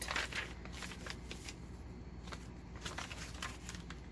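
Paper pages and envelopes of a handmade journal being handled and turned, a string of short, crisp paper rustles and crinkles.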